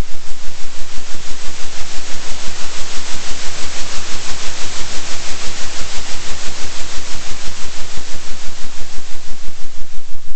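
Loud, steady hiss of noise that swells and fades evenly about three times a second: a 3 Hz oscillating noise track, with a steady deep hum underneath.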